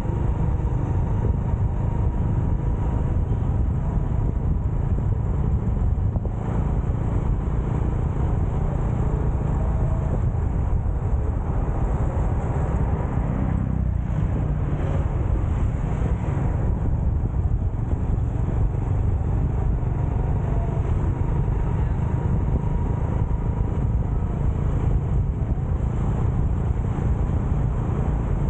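Motorcycle ride: a steady low rumble of wind buffeting the microphone, with road noise and the motorcycle running underneath.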